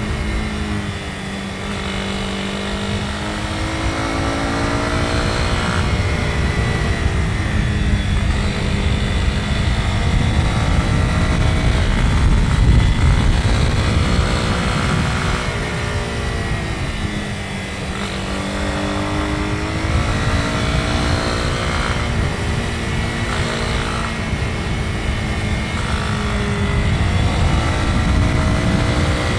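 Honda CB250R's single-cylinder engine running under way, its revs climbing and falling several times as the gears change, over a steady rushing noise.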